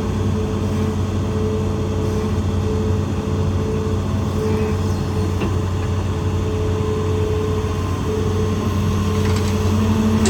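Hitachi ZAXIS 200 excavator's diesel engine running steadily, with pitched notes in the hum that strengthen and ease off now and then as the machine works.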